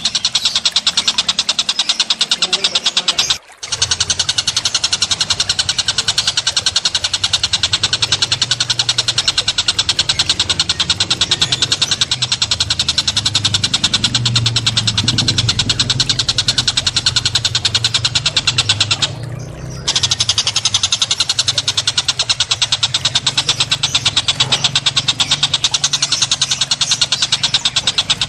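Small songbirds giving a fast, unbroken rattling trill. It breaks off briefly about three seconds in, and again for about a second near the twenty-second mark.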